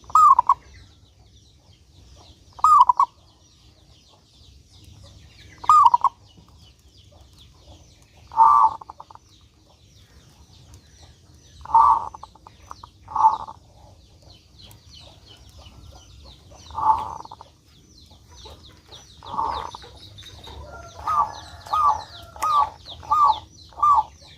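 Zebra dove (perkutut) cooing: single short coos a few seconds apart, then a quicker run of five notes near the end. A faint high chittering runs behind it.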